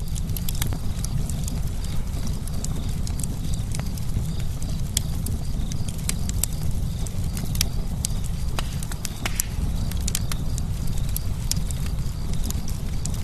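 Campfire burning, with frequent sharp, irregular crackles and pops over a steady low rumble of the flames.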